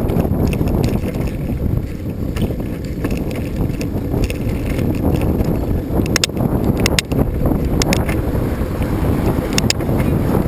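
Wind buffeting the microphone of a rider on a moving bicycle, a steady low rumble, with a few sharp clicks about six to seven seconds in and again near the end.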